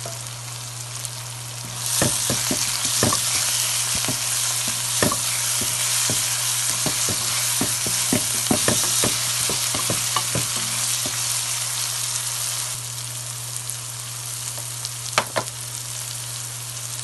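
Chopped onions, bell peppers and green chillies sizzling in oil in a metal pan as they are sautéed to soften. From about two seconds in a spoon stirs them, scraping and knocking against the pan. The stirring stops about two-thirds of the way through, after which the frying hiss is quieter, with a couple of sharp clicks near the end. A steady low hum runs underneath.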